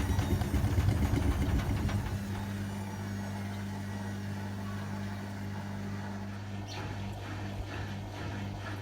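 Hotpoint WMA30 washing machine spinning with an unbalanced load: heavy rumbling and knocking from the off-balance drum that stops about two seconds in, leaving a steady hum. Near the end a rhythmic ticking starts, about two or three ticks a second.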